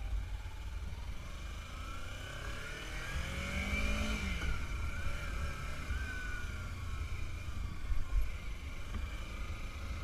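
Engine note and low wind rumble heard from a moving motorcycle. The engine pitch climbs to a peak about four seconds in, then falls away.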